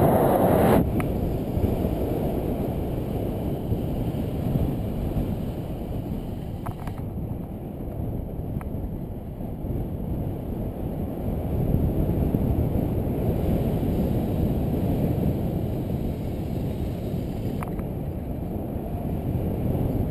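Wind rushing over a GoPro's microphone on a road bike descending fast, a steady low rumble.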